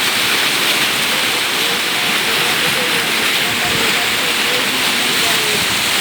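Floodwater rushing in a loud, steady roar of water, with faint distant voices.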